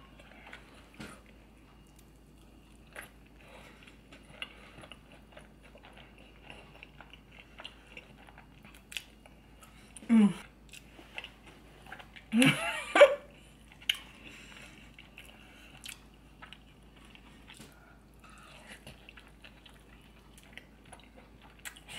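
Close-miked chewing and wet mouth sounds of a person eating seafood, with many small clicks and smacks. About halfway through come a couple of short hums that fall in pitch.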